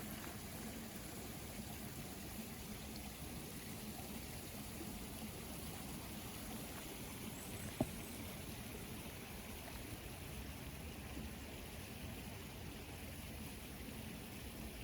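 Water trickling steadily, with a single brief click about eight seconds in.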